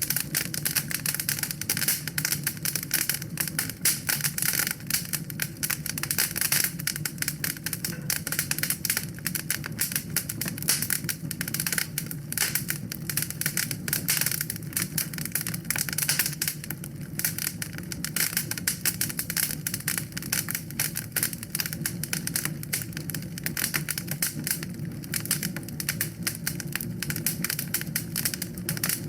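Wood fire crackling in a fireplace: a steady stream of rapid small pops and snaps over a low, even rumble of the flames.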